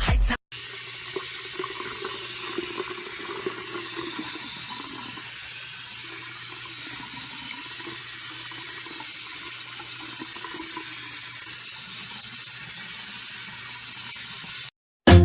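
Steady rush of running water, unbroken for about fourteen seconds.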